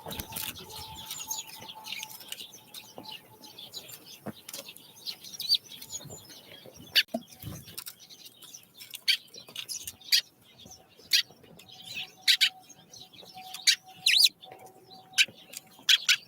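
Small wild songbirds chirping: a run of short, sharp, high calls that grow louder and more spaced in the second half, coming roughly once a second.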